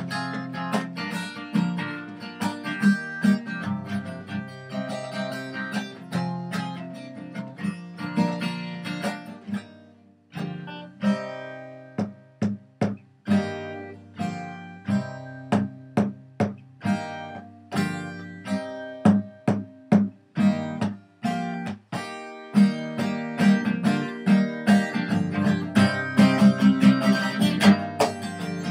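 Acoustic guitar played solo, a run of strummed chords and picked notes in a steady rhythm, with short breaks about ten seconds in and again near twenty-two seconds.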